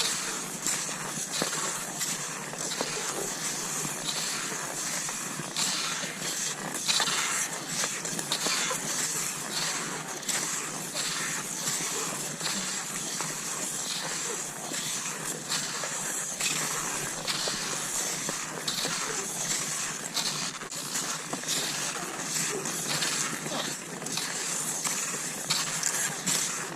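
Cross-country skis sliding and scraping over snow, with many short crunches from skis and pole plants.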